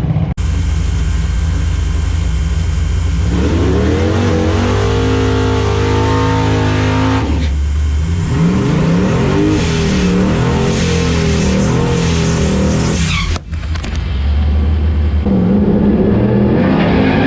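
Twin-turbo Ford Mustang engine running hard on a drag-strip run, revving up in several rising sweeps, with sudden cuts between shots.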